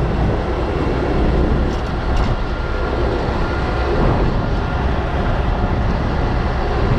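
A large diesel engine running steadily under load, with a dense, even mechanical noise over a low rumble.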